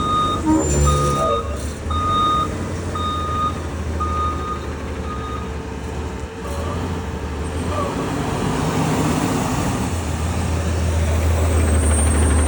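Garbage truck's diesel engine running, with its reversing alarm beeping steadily about once a second until it stops about five seconds in; the engine grows louder near the end.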